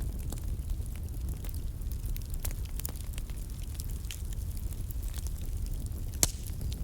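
Wood fire burning in a fireplace: a steady low rumble of flames with scattered crackles and pops, and one sharper pop about six seconds in.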